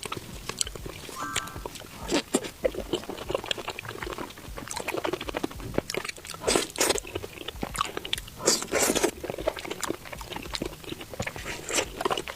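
Close-miked chewing and crunching of deep-fried skewered food, with crisp crackles throughout and the loudest crunches about six to seven and eight to nine seconds in.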